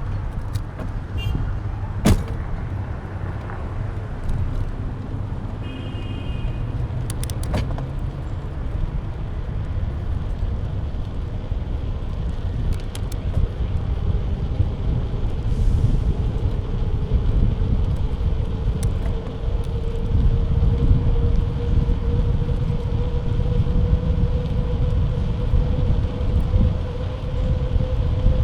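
Wind rushing over the microphone of a bike-mounted action camera, with rumbling road noise while riding, gradually growing louder. A few sharp knocks from the bike jolting, a brief high chirp about six seconds in, and a faint steady tone rising slowly in pitch in the second half.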